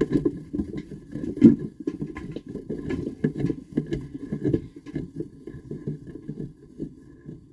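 Rapid, irregular knocking and rattling of a phone jostling inside a spinning plastic bird feeder, heard from inside the feeder. The knocks thin out and grow quieter over the last few seconds as the spin slows.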